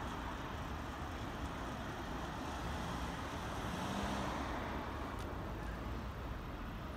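Keikyu 800 series electric train running slowly through a rail yard, heard as a steady distant rumble blended with background city traffic noise.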